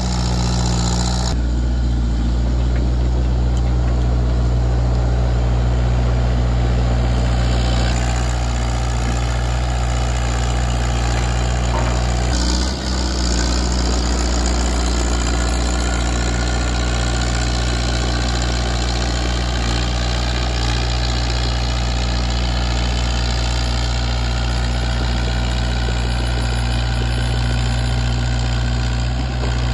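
Kubota KX161-3 excavator's diesel engine running steadily, the newly installed lower-hour replacement engine.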